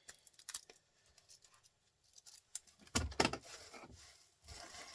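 Small scrap parts being handled: scattered light clicks and rustles, with a louder clatter about three seconds in and another rustle near the end.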